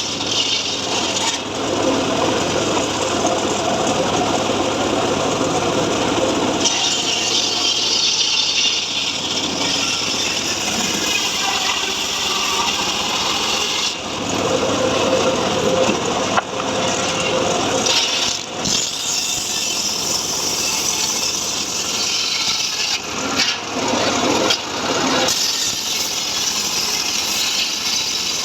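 Homemade circular sawmill cutting mahogany, a continuous loud sawing noise whose tone shifts several times as the blade works through the wood.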